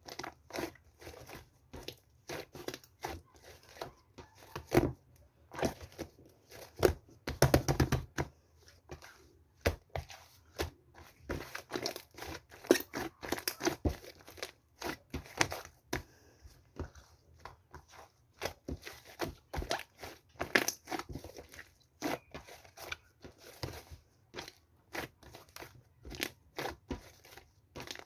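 Close handling of crinkly material: irregular crinkles, rustles and small taps, several a second, with a louder flurry about seven seconds in.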